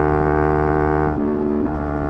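Yamaha R3's parallel-twin engine pulling at high revs, a steady pitched note. Just over a second in the note breaks and changes pitch for about half a second before settling again, typical of a gear change.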